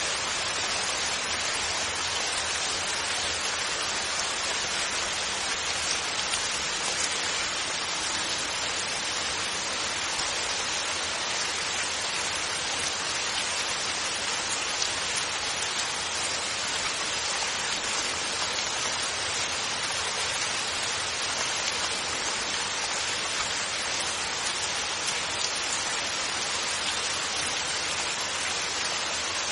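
Steady rain falling with no thunder: an even hiss, with faint scattered drop ticks.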